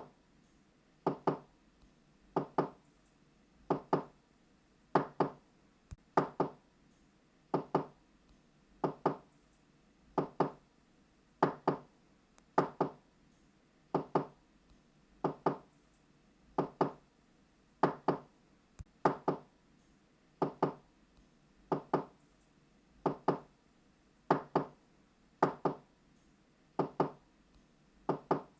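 Knocking on a door, a 'knock-knock' double rap repeated steadily about every one and a quarter seconds.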